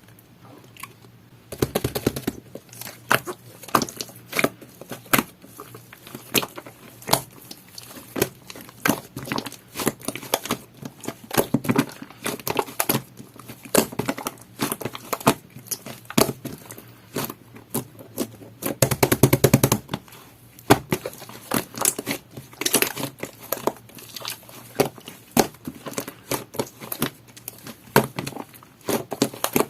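Jelly-textured slime being squeezed, poked and stretched by hand, giving a steady run of sharp clicking and crackling pops from trapped air, with a dense flurry of pops a little past the middle.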